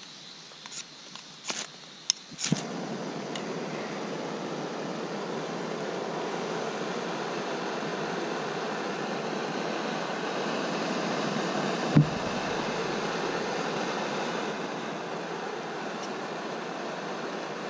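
A few small clicks, then a backpacking gas canister stove lighting with a pop about two and a half seconds in and burning with a steady hiss. There is a single knock about twelve seconds in.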